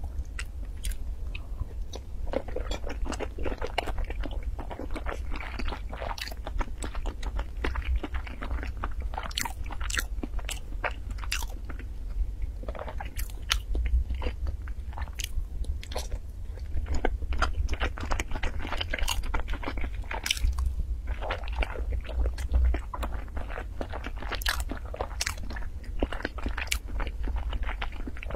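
Close-miked chewing and biting of century eggs (preserved eggs), with many short clicks and crackles from the mouth throughout.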